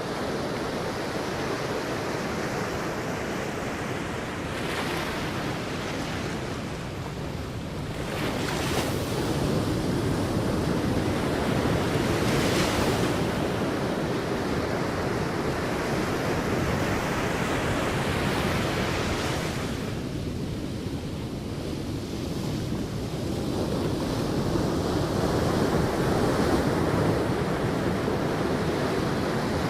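Sea waves breaking on a beach: a continuous wash of surf that swells and ebbs every few seconds, with wind on the microphone.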